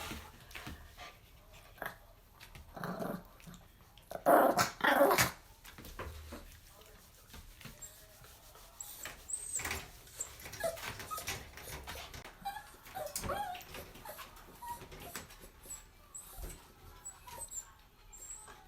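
Dog growling and whimpering, with a couple of louder outbursts about four to five seconds in.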